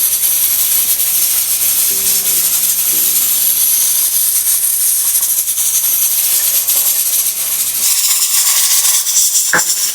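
Pot of beans on the boil under its lid, hissing steam loudly and steadily with a fast rattle, like a pressure cooker venting. The sound is called "so noisy".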